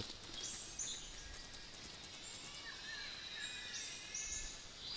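Rainforest birds calling faintly: a pair of short, high whistled notes about half a second in and again near four seconds, with softer calls in between, over a thin steady high insect tone.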